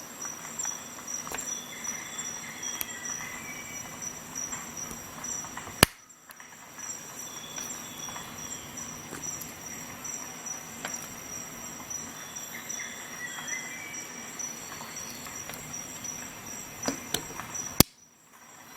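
Steady high-pitched cricket-like chirring over a low background, with light scattered clicks and two sharp loud clicks about six seconds in and near the end, each followed by a brief dip in level.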